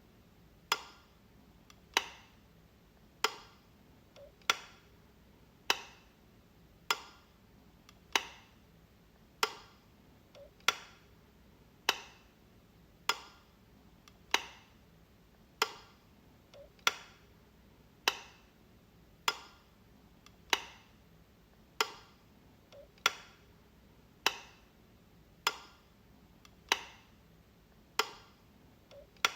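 Light switch flicked again and again: a sharp click about every second and a quarter, in an even rhythm.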